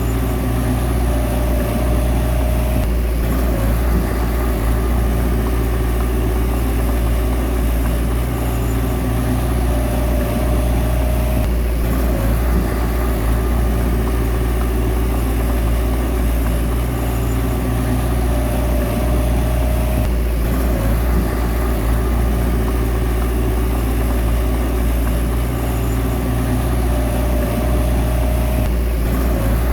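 Bulldozer's heavy diesel engine running steadily under work, with a short whine that returns about every eight or nine seconds.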